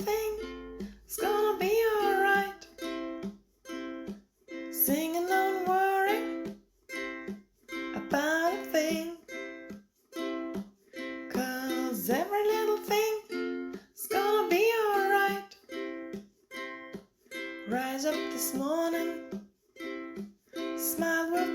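Ukulele strummed in repeated chords, with a voice singing in phrases of about two seconds separated by short pauses, in a small room.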